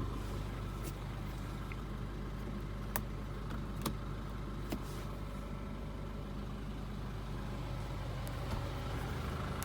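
Nissan Navara dCi's 2.3-litre four-cylinder diesel idling steadily, heard from inside the cab, with a few faint clicks about three to five seconds in.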